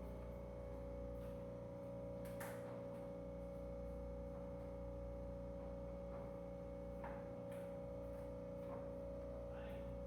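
Ship's steering gear hydraulic pump unit running: a steady machinery hum with one strong held tone, and a few faint clicks scattered through it.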